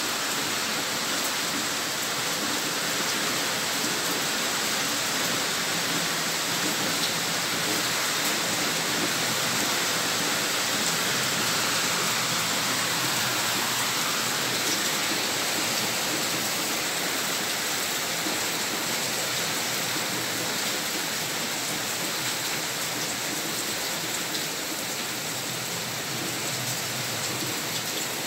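Heavy rain falling on dense foliage, a steady even rush that grows a little louder around the middle.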